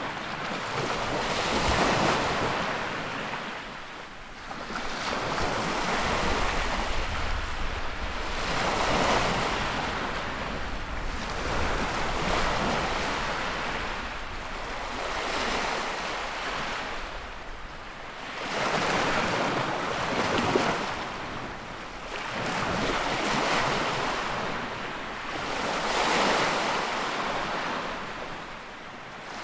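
Sea waves breaking and washing in, a rushing hiss that swells and ebbs in slow repeated surges every few seconds.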